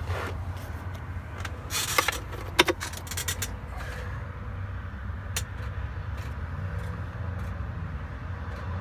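Keys jangling and clicking as the ignition key of a 2012 Mack truck is inserted and turned to the on position, with a few sharp clicks about two seconds in. A low steady rumble runs underneath; the engine is not yet cranked.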